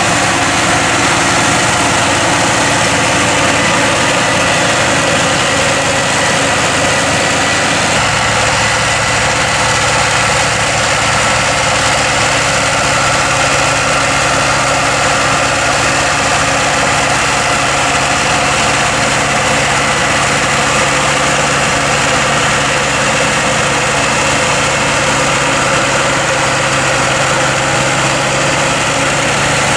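Massey Ferguson tractor's diesel engine running steadily with a forage harvester working silage. The sound shifts abruptly about eight seconds in, with more low rumble after the change.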